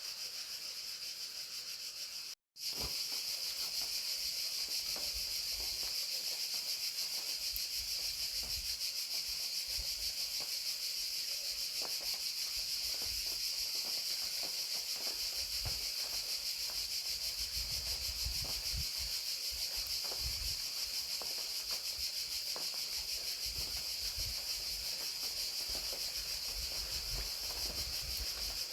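Chorus of crickets trilling steadily in a high, fast-pulsing band, over a light patter of rain with scattered small ticks and soft low thuds. The sound drops out completely for an instant about two and a half seconds in.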